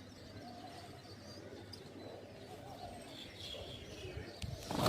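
Faint chirping of small birds, with short high calls scattered throughout. A loud low rumble or thump breaks in right at the end.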